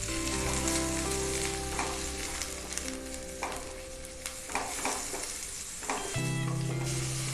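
Ground chicken and chicken pieces sizzling as they fry in oil with onion and ginger-garlic paste in a kadai, with a spatula stirring and scraping a few times.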